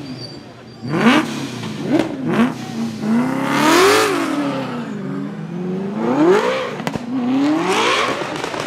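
A drift car's engine revving hard, its pitch climbing and falling again and again, with one long climb about four seconds in. A single sharp crack comes near seven seconds in.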